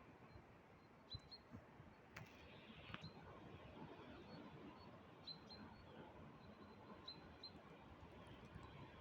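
Near silence: faint outdoor ambience with short, high, thin bird chirps repeating every second or two.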